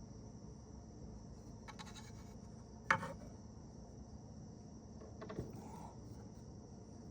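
Small knocks of parts or tools being handled on the bench: one sharp knock about three seconds in and a lighter one a couple of seconds later. Behind them runs a steady, faint high chirring like crickets.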